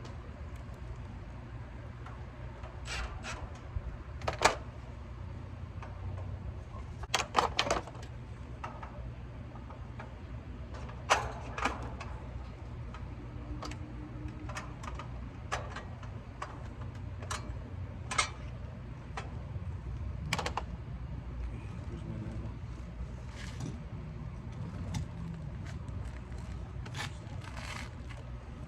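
Scattered sharp metallic clicks and taps from hands working with tools and fasteners on the condenser install, a dozen or so spread out with a quick cluster about seven seconds in. A steady low hum sits underneath.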